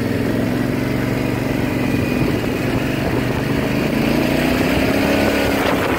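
Small vehicle engine running steadily as it drives through a pool of standing water, with water and slush noise from the wheels.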